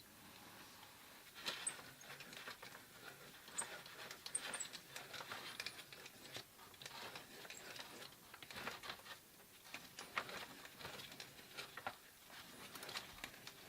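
Faint, irregular clicks and scrapes of hand tools working a short piece of copper pipe.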